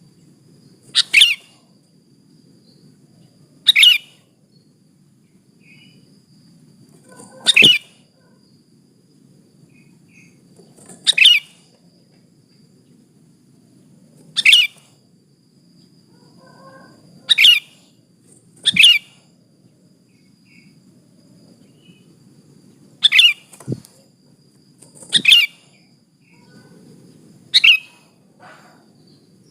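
Female sooty-headed bulbul (kutilang) giving short, sharp, high calls, one every two to four seconds, over a faint background hum. This is a female's call of the kind used to lure and excite males.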